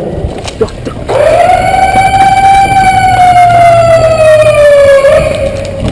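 A siren sounds one long wail. It swoops up quickly about a second in, then sinks slowly in pitch over the next four seconds and cuts off near the end.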